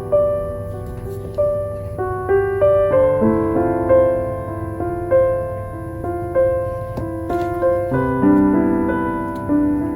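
Slow solo piano music: single notes and chords struck about every half second, each ringing and fading.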